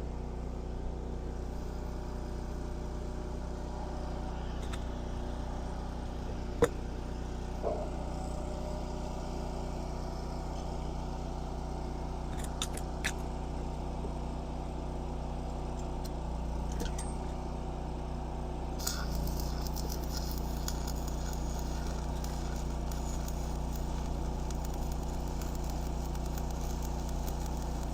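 A steady mechanical hum from a running engine or motor, with a few sharp clicks and knocks; it grows a little fuller about two-thirds of the way through.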